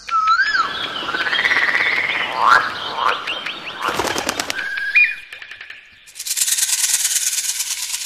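Wild bird calls: gliding whistles, then busy chattering with short rising notes, then a held whistle that jumps up in pitch. About six seconds in comes a fast, high, evenly pulsed buzzing trill. Each sound switches abruptly to the next.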